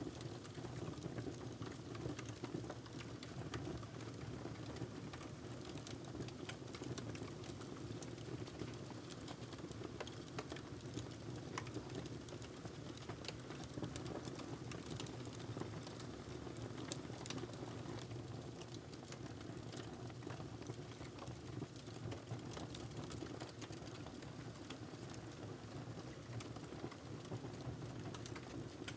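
Wood fire in a fireplace crackling steadily, with frequent small pops and snaps over a low rush of the flames.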